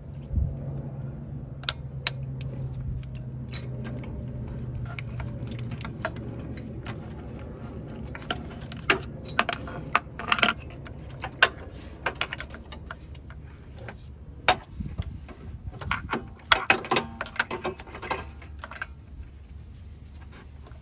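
Metal hand tools clinking and rattling: a ratchet, socket and extension bar being handled, with scattered sharp clicks that are thickest from about eight to nineteen seconds in. A low steady hum runs for the first six seconds.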